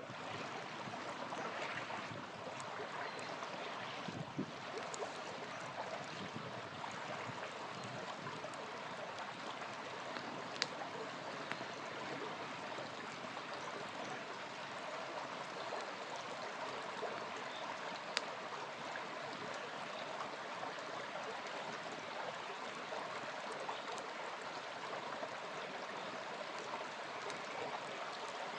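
Small river flowing steadily, with a few sharp pops now and then from a crackling campfire.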